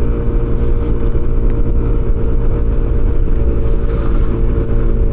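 Motorcycle engine running at a steady cruising speed, its pitch holding constant, with road and wind noise.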